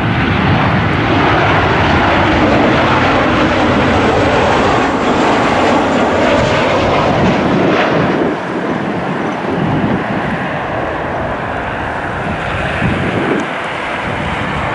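Jet engines of a Boeing 737-800 airliner passing on arrival: a loud, steady roar that eases a little about eight seconds in, with wind buffeting the microphone.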